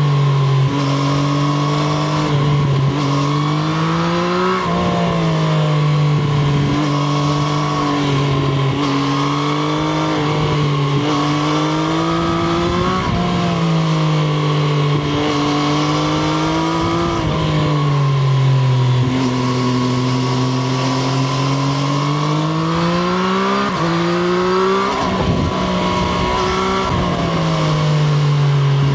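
Triumph Street Triple RS 765 cc inline-three motorcycle engine under way, its revs climbing and dropping again and again as it is accelerated, shifted and rolled off.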